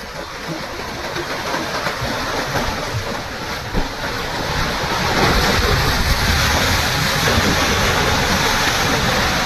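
Heavy rushing, crashing water from surging waves or floodwater, a continuous noise that grows louder about five seconds in.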